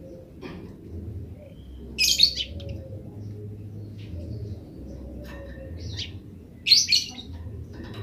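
Eurasian tree sparrow giving its rapid chattering 'grece' call: two loud bursts of quick high chirps, about two seconds in and again near seven seconds, with fainter single chirps between them. A steady low rumble runs underneath.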